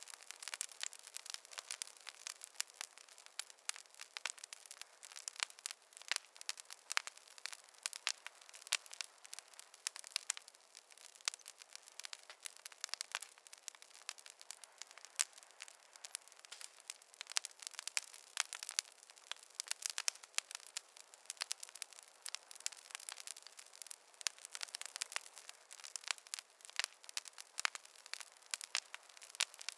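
Campfire crackling, with frequent sharp irregular pops and snaps over a soft hiss.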